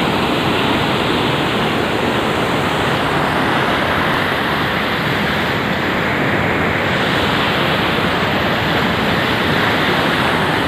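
Steady, loud rush of flowing river water, an even noise with no breaks.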